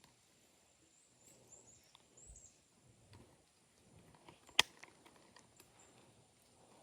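Quiet outdoor background with faint, high bird chirps in the first half and scattered light clicks, with one sharp click a little past the middle.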